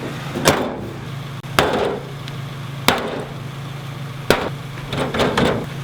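A series of sharp hammer-like knocks, about six strikes spaced a second or so apart, over a steady low hum.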